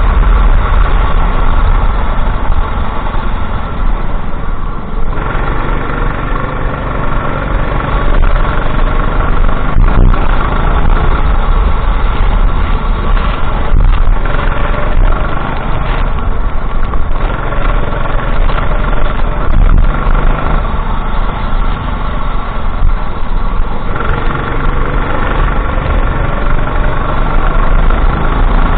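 Go-kart engine running hard at race pace, its pitch climbing steadily for several seconds at a time and dropping back, as it accelerates out of corners and lifts for the next ones, with heavy low rumble underneath.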